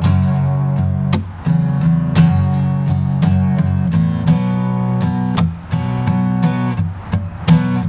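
Acoustic guitar strummed in a steady rhythm, with ringing chords: the instrumental introduction to a song, before the vocals come in.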